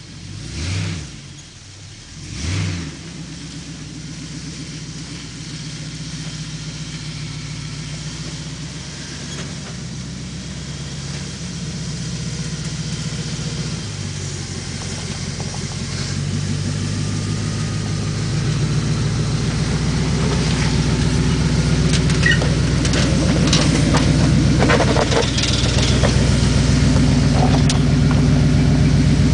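Chevy Blazer 4x4's engine running as the truck drives off-road, its steady note growing louder through the stretch. Two short loud surges come in the first few seconds, and scattered knocks and rattles come later on.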